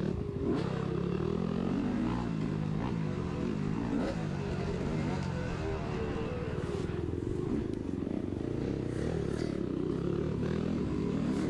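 Dirt bike engine running under the rider, its pitch rising and falling repeatedly as the throttle is worked through a trail section.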